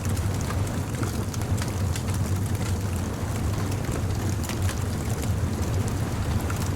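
Bonfire crackling with scattered small pops over a steady low rumble of surf on a beach.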